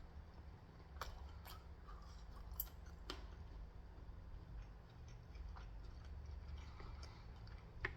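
Faint chewing and eating sounds, with scattered sharp mouth clicks and smacks over a low steady hum.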